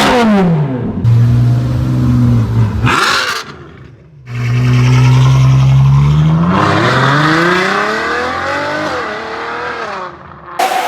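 Ferrari engine through a straight-piped exhaust: a quick rev blip, a steady drone, a short burst and a brief quiet gap, another steady drone, then revving up with the pitch climbing for a few seconds before it fades away. Another engine cuts in abruptly near the end.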